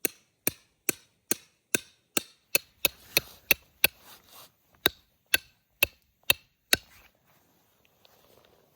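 A tent peg being hammered into the ground: about sixteen sharp, ringing strikes at a steady pace, with a brief pause partway through, stopping near the end.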